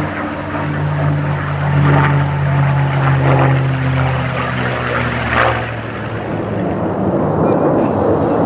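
Propeller aircraft passing overhead: a steady engine drone whose pitch sags slightly as it goes by, then fades about six seconds in, leaving a rough rushing noise.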